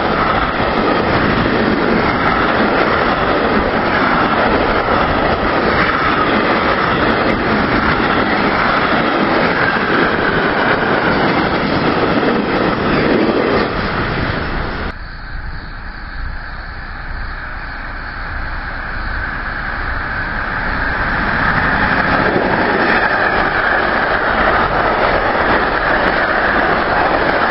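Train passing at speed, a dense, steady noise of wheels on rail. It drops off abruptly about halfway through, then a train's noise builds up again over several seconds to full loudness.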